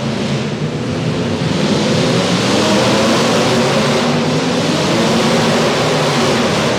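Several demolition derby cars' engines running loud and steady together, under a dense noisy wash.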